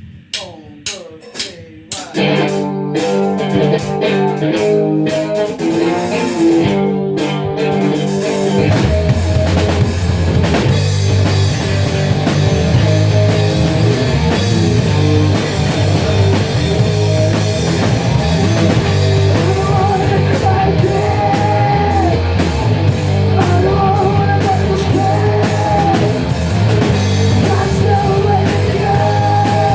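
A rock band playing with electric guitar and drum kit, starting with a few separate hits and building into full playing within the first few seconds, the low end filling out about nine seconds in.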